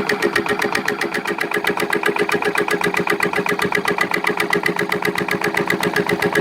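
Victor diesel engine running steadily while driving a Keystone electric generator, with a rapid, even exhaust beat.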